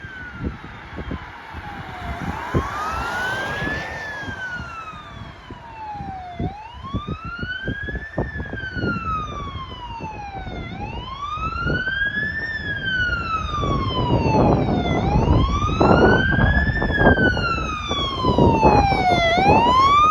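Fire apparatus electronic siren in a slow wail, rising and falling in pitch about every four seconds. Engine and road rumble grows louder in the second half as the vehicle approaches.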